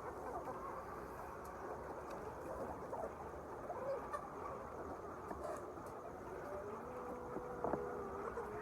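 A dense chorus of many chickens in a poultry shed, their short cheeps and calls overlapping into a steady murmur of chirping.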